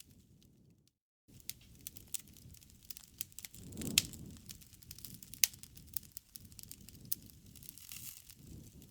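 Campfire crackling: scattered sharp pops and snaps over a low rumble of burning wood. The sound cuts out completely for a moment about a second in, then resumes.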